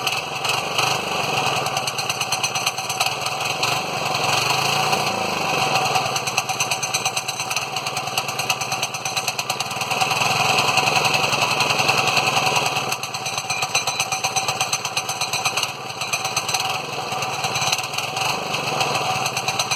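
Small 3 hp Briggs & Stratton single-cylinder engine on a Manco Streaker mini bike, running after a fresh spark plug and a carburetor clean, speeding up and easing back twice.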